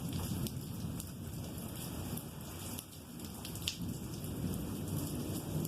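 Rain falling steadily, with individual drops ticking close by, one sharper tick past the middle, under a low rolling rumble of thunder.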